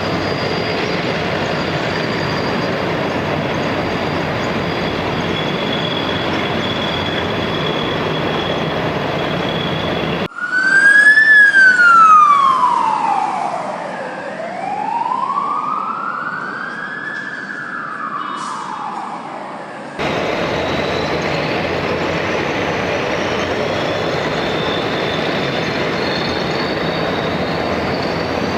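A siren wailing, its pitch sliding down and then back up, cut in abruptly between two stretches of steady rushing noise with faint high steady tones; the noise stops sharply when the siren starts and returns just as sharply when it ends.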